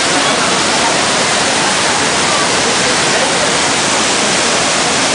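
Düden waterfall: a steady, loud rush of falling water, even and unbroken throughout.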